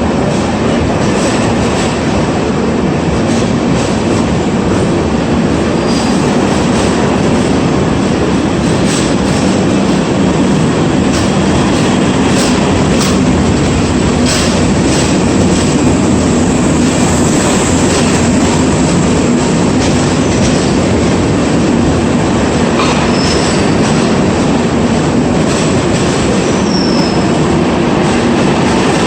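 Express train's LHB coaches rolling along the platform track: a loud, steady rumble of wheels on rail, with scattered clicks over rail joints and a few brief high wheel squeals.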